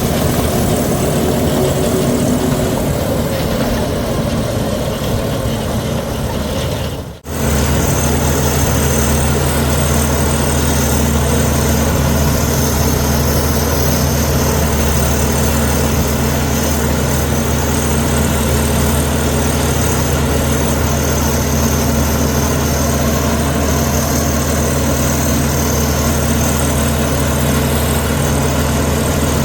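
Heavy diesel engine of a Komatsu D61EX crawler bulldozer running steadily. The sound dips sharply for a moment about seven seconds in, then carries on unchanged.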